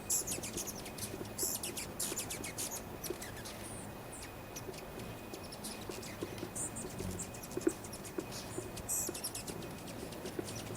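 A crowd of hummingbirds squeaking and chittering while they fight over a feeder: many short, high-pitched chip notes in quick clusters, overlapping throughout.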